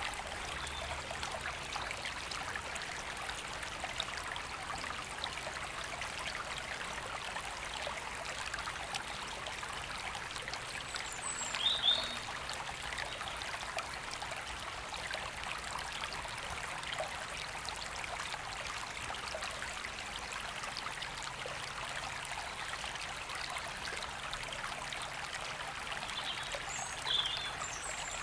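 A woodland river flowing steadily over stones. A bird gives a short high chirp twice, about twelve seconds in and near the end.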